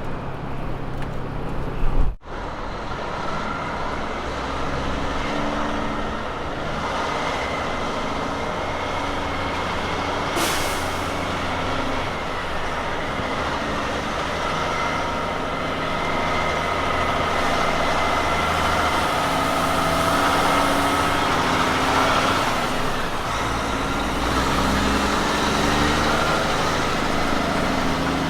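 Road train prime mover's diesel engine running under way, with a steady whine from the tyres and driveline, and a brief hiss about ten seconds in. The sound cuts abruptly to this about two seconds in.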